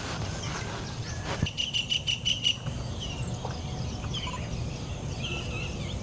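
Wild birds calling: a fast run of sharp, rapidly repeated chirps about a second and a half in, then scattered short chirps, over a steady low rumble.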